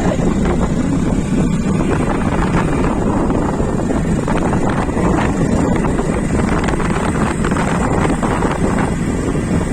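Steady noise of a vehicle driving on a wet road in rain, with wind buffeting the microphone.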